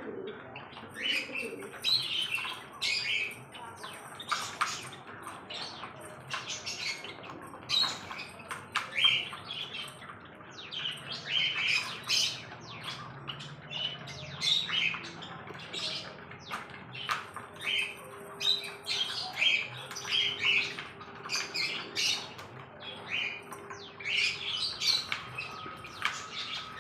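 Birds chirping and squawking, with many short high-pitched calls coming irregularly, several a second, throughout.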